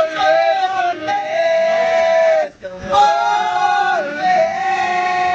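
A man's voice singing long held notes without accompaniment, the pitch wavering slightly. He breaks off for a breath about two and a half seconds in, then holds another long note.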